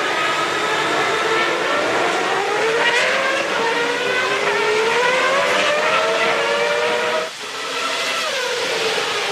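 1993 Formula One race cars' engines at high revs, the pitch climbing steadily as they accelerate. About seven seconds in the sound drops out briefly, then the pitch falls.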